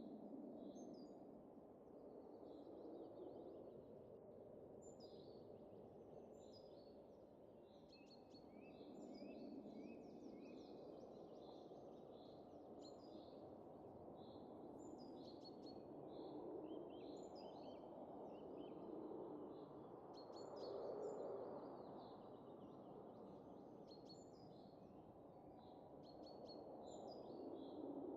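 Faint winter wind in a soft, low rush that swells and eases, with small birds chirping again and again over it.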